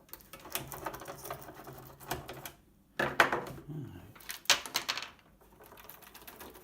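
Irregular clicks and scrapes from a screwdriver working screws out of a plastic case and the case parts being handled, with louder clusters of clicks about three seconds in and again about four and a half seconds in.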